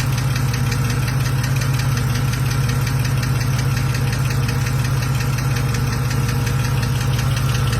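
BMW engine idling steadily with a fast, even ticking from the valvetrain: the lifter tick.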